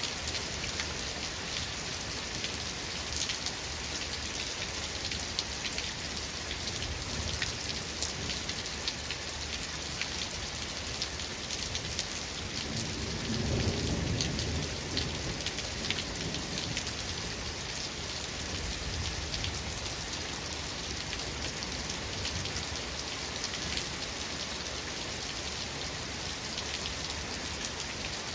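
Steady rain falling, a continuous hiss with many small drop ticks. About halfway through, a low rumble of thunder swells for a couple of seconds and fades.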